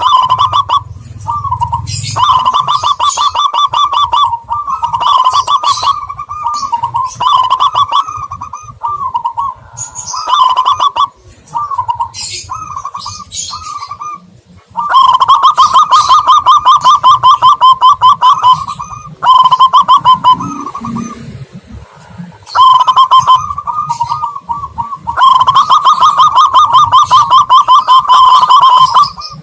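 Lure recording of zebra dove and spotted dove calls: fast runs of short cooing notes on nearly one pitch, loud, in stretches of a few seconds with short breaks between.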